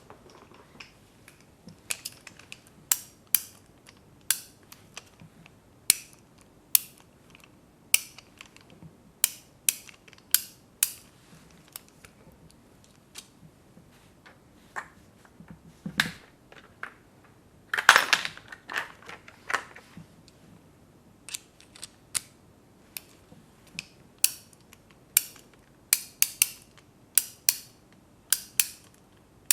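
Close-up sharp clicks and snips of small handheld tools, coming irregularly about one or two a second, with a longer scraping rustle about 18 seconds in.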